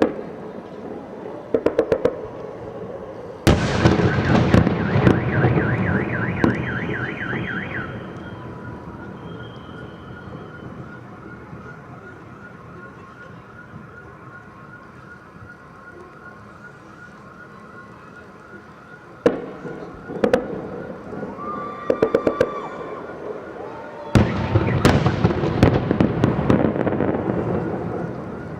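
Fireworks salute: sharp bangs and dense crackling barrages, with heavy volleys about three seconds in and again near the end and scattered bangs between them. A car alarm sounds steadily through the lulls.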